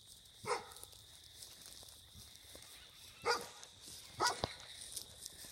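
A dog barking three short times, spaced a few seconds apart.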